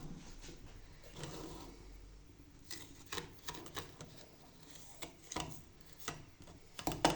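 Faint rubbing and rustling with scattered light clicks and taps of kitchen things being handled, with a quick run of sharper clicks near the end.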